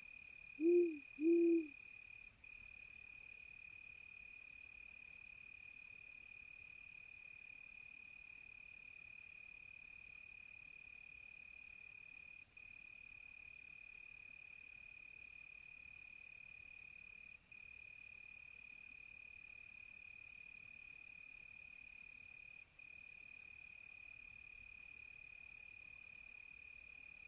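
An owl hooting twice in quick succession about a second in, over crickets trilling steadily on one high note throughout.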